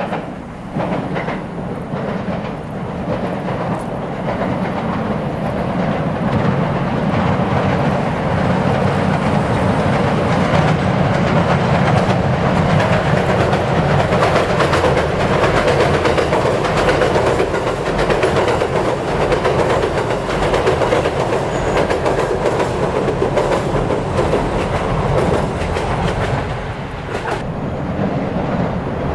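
JR E127 series electric train crossing a steel girder bridge: a steady rumble with wheel clatter over the rail joints. It builds over the first several seconds, then holds. It drops off abruptly near the end.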